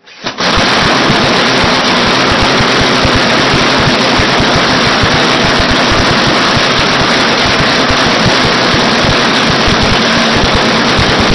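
Replica Roberts two-stroke aircraft engine catching about a third of a second in, then running very loudly and steadily with a rapid, even firing beat.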